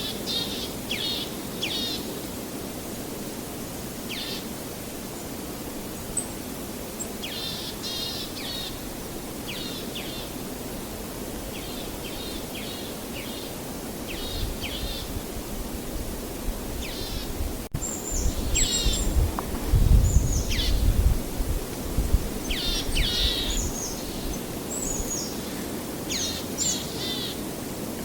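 Songbirds singing short, repeated chirping phrases over a steady outdoor hiss. A low rumble swells in about halfway through and is loudest a little after, then fades.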